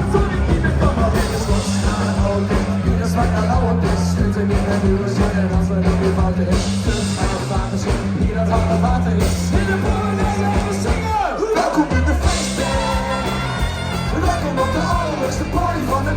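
Live band playing an upbeat rock party song with vocals. The bass drops out for about a second, with a falling sweep, about two-thirds of the way in, then the band comes back in.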